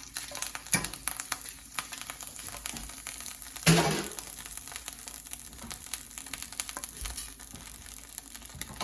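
Boiled cicadas sizzling in hot olive oil in a pan, a steady sizzle full of small crackles and pops. About four seconds in there is one louder pop or knock.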